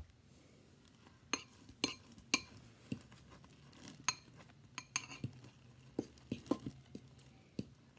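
A metal utensil clinking against a bowl of microwaved eggs, a dozen or so irregular light taps, as when stirring.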